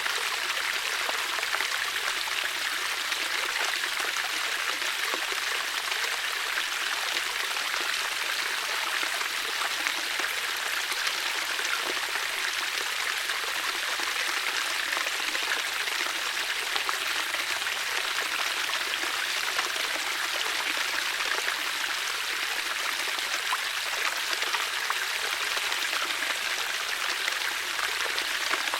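Water flowing steadily, an even rushing with fine splashing detail and no change in level.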